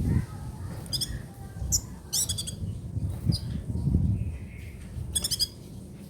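Kolibri ninja (sunbird) singing in short bursts of very high, rapid, rattling trills, about five phrases with gaps between, over a low background rumble.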